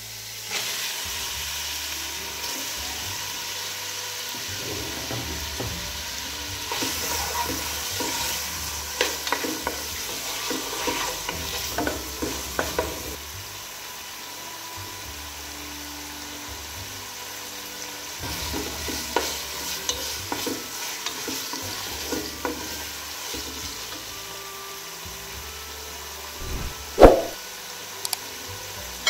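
Raw chicken strips sizzling in hot oil and garlic-ginger paste in a pot, stirred with a wooden spoon that scrapes and clacks against the pan in spells. There is one sharp knock about two seconds before the end.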